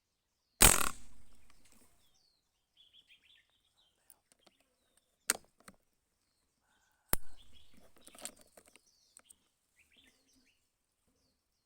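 Two gunshots about six and a half seconds apart, each trailing off in a short echo, with a fainter sharp crack between them. Small birds chirp in the pauses.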